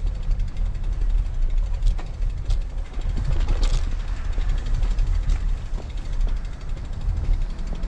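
Wind rumbling over the microphone of a camera on a moving road bike, with a few faint ticks.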